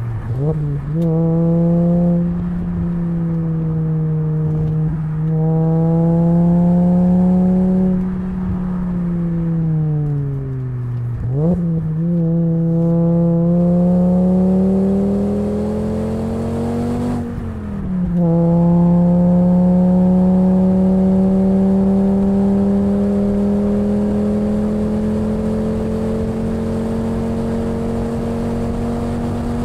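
2004 Volvo V70's naturally aspirated 2.4-litre inline-five exhaust through a Borla XR1 muffler while driving. The engine note sinks as revs fall, jumps in a quick rev blip about eleven seconds in, climbs under acceleration, drops abruptly at a gear change about seventeen seconds in, then rises slowly through a long pull.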